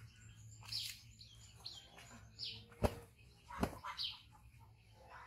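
Birds chirping, with several short high falling chirps, and two sharp knocks a little under a second apart near the middle, the loudest sounds.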